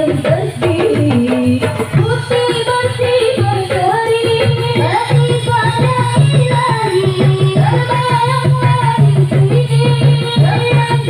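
Marawis ensemble playing: a fast, dense beat on hand drums under a sung melody.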